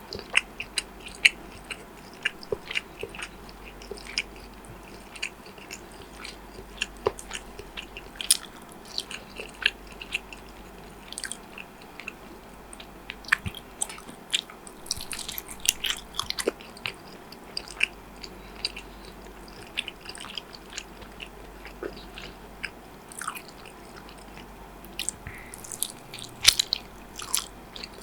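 Close-miked eating sounds: someone chewing and biting into food, a run of irregular, sharp crunchy clicks.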